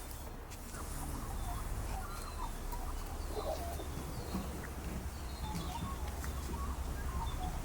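Birds calling: many short, scattered chirps and notes over a steady low rumble.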